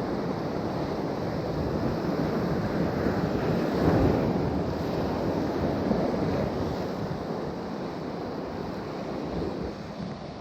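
Sea surf washing ashore, with wind buffeting the microphone; a wave swells up about four seconds in and eases off toward the end.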